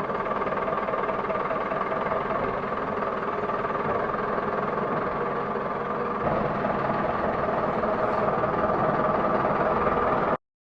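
A motor or vehicle running steadily, with a slight step up in level about six seconds in.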